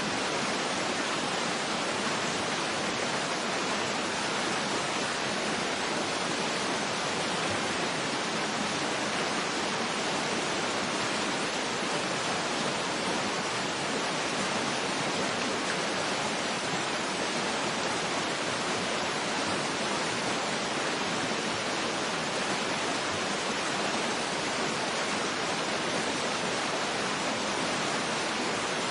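Waterfall water rushing in a steady, unbroken hiss that does not change.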